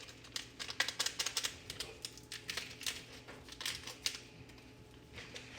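Quick irregular light clicks and taps of seasoning packets and kitchen utensils being handled while the seasonings are added to the noodles. They die away after about four seconds.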